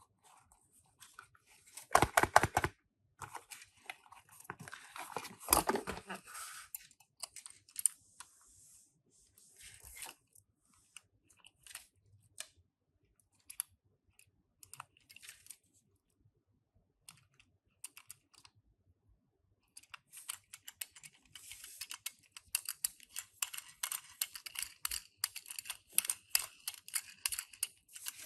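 Hands unboxing and handling Tomica die-cast minicars: two loud bursts of crinkling and tearing packaging near the start, then scattered light clicks. In the last third comes a long run of rapid small plastic and metal clicks and rattles.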